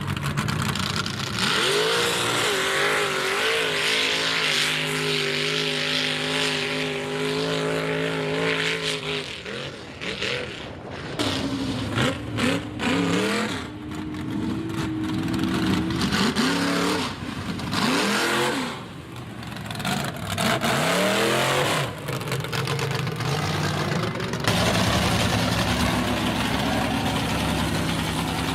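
High-horsepower mega mud truck engine with open headers, held at high revs for several seconds, then revved up and down over and over, then running hard again.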